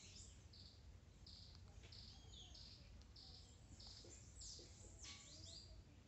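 Faint birdsong: a run of short high chirps, a little over one a second, with a couple of falling sweeping calls near the end, over a low steady outdoor rumble.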